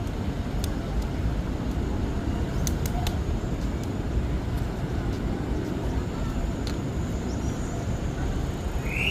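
Steady low rumble of outdoor background noise, with a few faint sharp ticks scattered through it.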